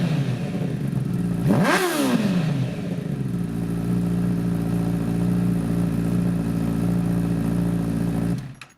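2015 Honda CBR1000RR Fireblade's inline-four engine, warmed up, through a full titanium Arrow Competition exhaust. The pitch falls away from a rev, then one quick throttle blip about a second and a half in rises sharply and drops back. After that it settles into a steady idle until the engine cuts out near the end.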